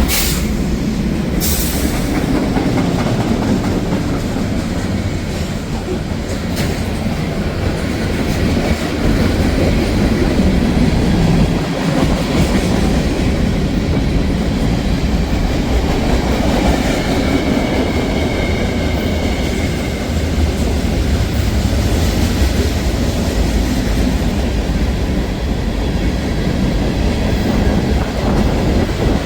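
A train passing close by: the steady rumble of wheels running on the rails, with a faint high wheel squeal briefly in the middle.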